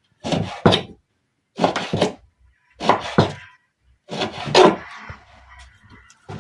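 Raw beef being chopped into pieces: a run of heavy thunks about once a second, some coming in quick pairs.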